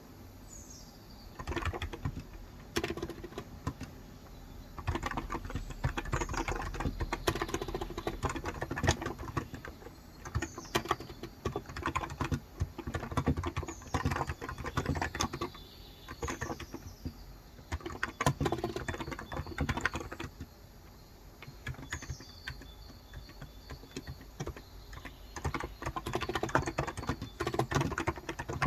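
Typing on a Cox Endeavor electro-capacitive (Topre-style) tenkeyless keyboard with light 35 g switches: dense runs of soft keystrokes in bursts with short pauses between. Birds chirp in the background several times, each call a short falling note.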